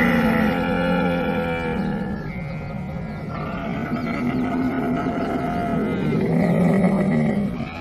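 Camel calling in long, low, drawn-out cries. One call eases off about two seconds in, and a second swells up and drops away near the end.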